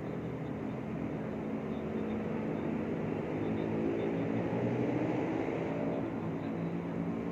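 Motor traffic running steadily, with one vehicle's engine swelling to its loudest about four to five seconds in and then easing off.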